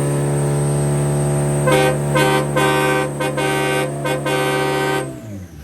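Car engine held at high revs during a burnout, a steady note, with a series of short honks of a car horn over it from about two seconds in. The revs drop off near the end.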